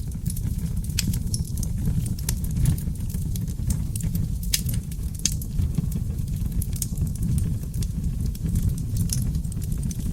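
Wood fire of oak logs burning steadily in a fireplace: a low, even rumble of flames with irregular sharp crackles and pops from the logs, one louder pop about halfway through.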